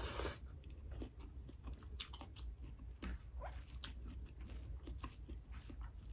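Close-up mouth sounds of a person eating rice and curry by hand: soft wet chewing with small clicks and smacks, and a short breath at the very start.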